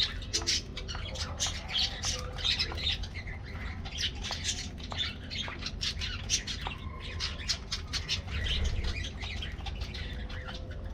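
A flock of budgerigars chattering and squawking, with many quick overlapping chirps over a low steady rumble.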